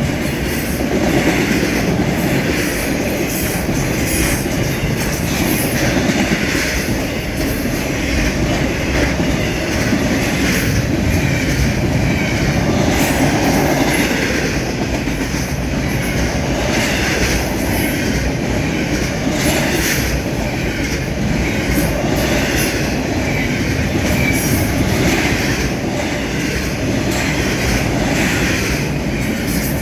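Railroad cars rolling past: a steady, loud rumble and clatter of wheels on the rails, with brief faint wheel squeals a couple of times.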